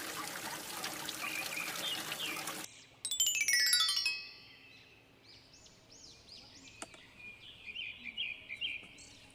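Water running and splashing, which stops abruptly. A descending run of chime-like tones follows, then birds chirping.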